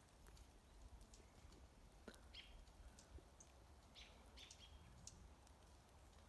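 Near silence, with a few faint, short bird chirps and light clicks.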